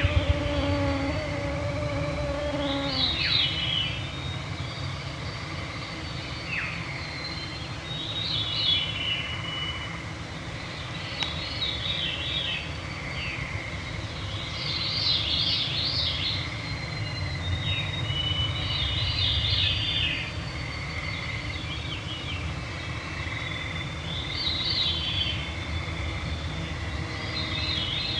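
Forest songbirds singing at dusk, a short song phrase repeated every three to four seconds over a steady low rumble. A mosquito whines close to the microphone for the first three seconds.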